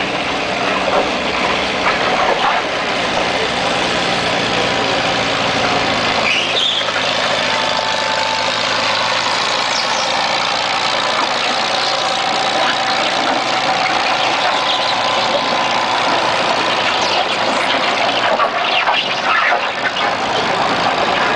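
1948 Farmall Cub tractor's engine running steadily as it pulls the sled; its low note weakens about six seconds in.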